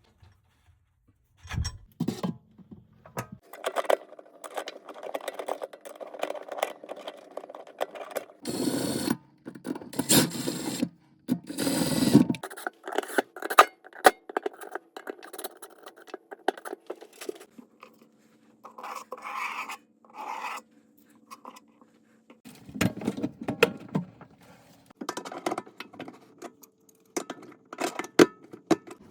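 Hand tools and metal parts clanking, scraping and clicking during garbage disposal installation work, with several longer scraping rattles. A faint steady hum runs through the second half.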